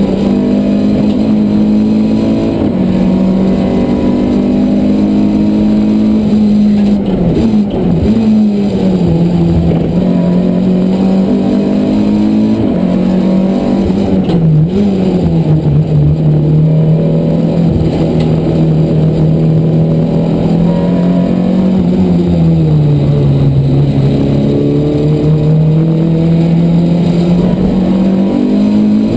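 Renault Clio race car's engine, heard from inside the cabin, running hard through a lap. Its pitch drops sharply about seven seconds in, dips briefly around halfway, and falls lower late on before climbing again.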